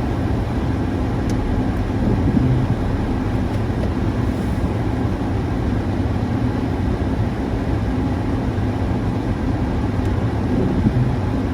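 Steady low rumble with a faint hum running under it.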